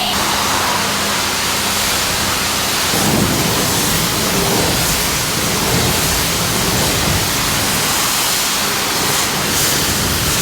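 Steady hiss of water spraying from a pressure-washer wand onto the truck, with more low rumble from about three seconds in.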